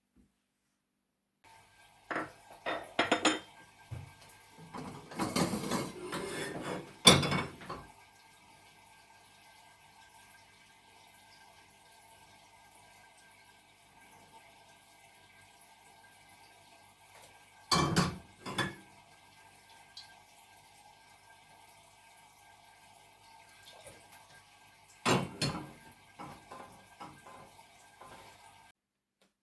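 Cutlery clinking and scraping against plates and dishes at a meal, in a few short clusters of clatter. The loudest clatter comes about seven seconds in, with further clinks near eighteen seconds and around twenty-five seconds, and quiet between them.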